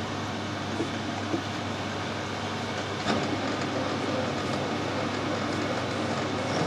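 Metal lathe running steadily as a drill fed from the tailstock bores out the end of a 3/4 inch metal tube. About three seconds in, a rougher cutting noise joins the machine hum as the drill bites.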